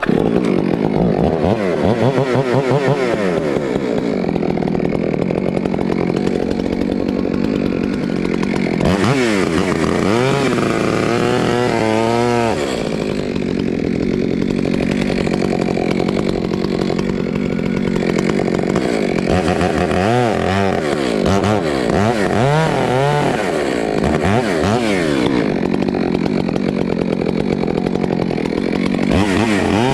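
Stihl MS462 two-stroke chainsaw running and cutting wood. Its engine pitch rises and falls over and over as the throttle is worked through the cut.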